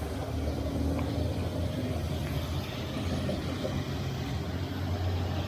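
Street traffic with a steady low engine hum.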